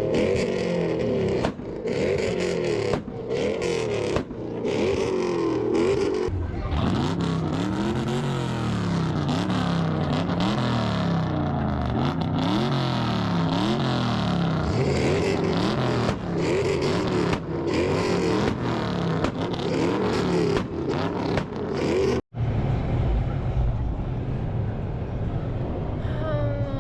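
Car engines being revved over and over, the pitch swinging up and down in quick repeated rises and falls. A sudden break about 22 seconds in is followed by a steadier engine sound.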